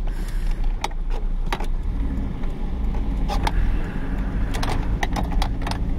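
A car driving, heard from inside the cabin with a window open: a steady low rumble of engine and tyres, with a handful of sharp clicks and knocks scattered through.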